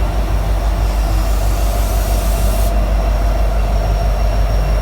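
Freight train rolling past at close range: a steady low rumble of locomotives and cars on the rails with a faint steady ring, and a high hiss that cuts off abruptly a little over halfway through.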